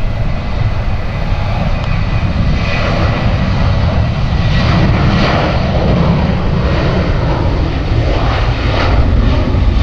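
Airliner's engines running loud, a steady low rumble with a hiss above it, swelling a little midway and again near the end.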